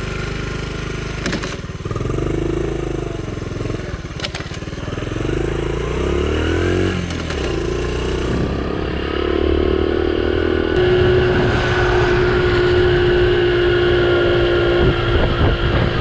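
Honda CT70's small single-cylinder four-stroke engine running as the bike is ridden, its pitch rising and dropping several times as it accelerates and shifts. From about eleven seconds in it holds a steady, higher speed.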